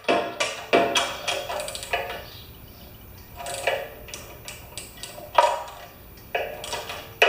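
Socket wrench with an extension working on a generator's spark plug: irregular metallic clinks and knocks, some with a brief ring, about nine in all.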